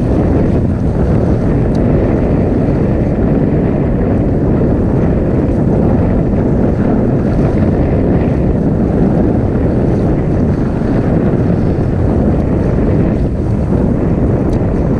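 Steady wind buffeting the microphone: a loud, unbroken low rumble.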